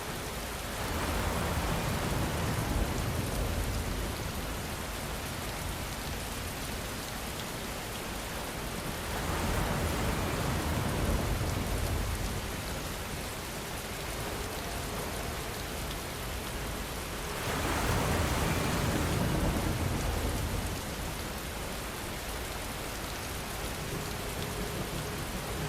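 Steady rainfall hissing and pattering, swelling louder with a deeper rumble three times, roughly every eight seconds.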